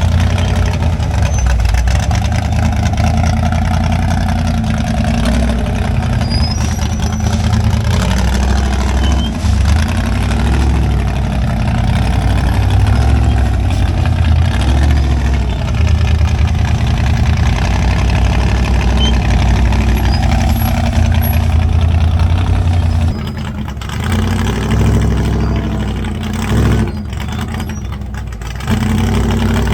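Off-road crawler rig's engine running loud and close, the revs rising and falling as it works over the rock. About two-thirds of the way through it drops back, then comes in short bursts of throttle near the end.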